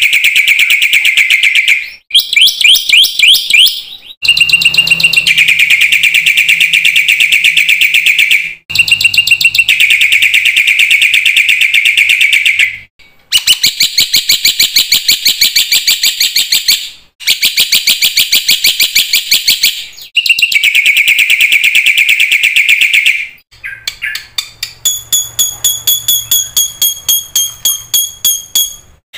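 Black-winged myna (jalak putih) singing: long phrases of fast, rapidly repeated chattering notes, each a few seconds long with short breaks between. Near the end the song turns to an evenly pulsed call with steady whistled tones.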